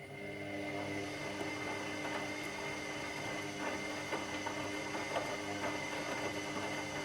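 Washing machine motor coming on and running: a steady whine, rising in over the first second, with a dense rattling clatter over it.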